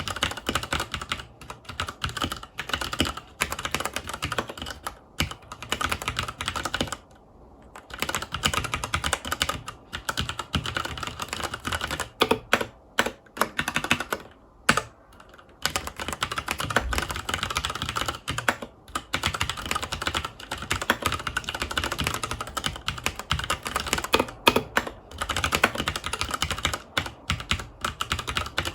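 Continuous fast typing on a FILCO Majestouch 2 tenkeyless mechanical keyboard with Cherry MX Brown switches: a dense run of key clicks and clacks, pausing briefly about seven seconds in and again about halfway through.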